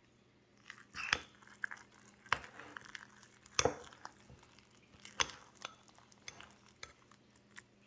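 A utensil clinking and scraping against a bowl of grits and eggs, with about half a dozen sharp, irregularly spaced knocks and softer stirring sounds between them.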